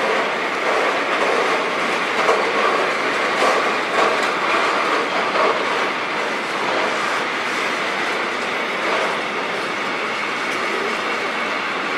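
Freight train of loaded container flat wagons rolling past, the wheels clattering steadily over the rails, a little louder in the first half.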